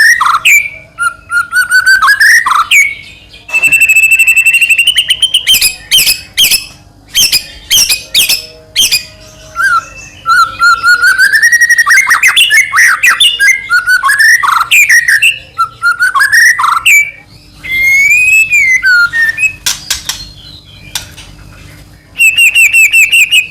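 White-rumped shama (murai batu) singing loudly in a long, varied song: whistled phrases that slide up and down, fast trills and sharp clicks, with short pauses. The song ends in a fast run of repeated high notes.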